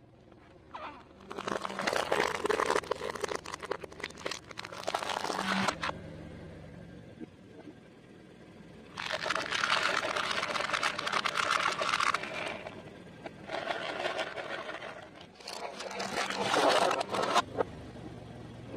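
Crispy fried food being crushed under a car's tyre: dense crunching and crackling in four long bouts, over a faint low hum.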